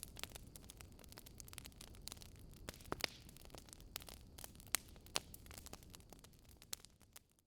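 Wood fire crackling, with irregular sharp pops over a low steady rumble, fading out in the last second.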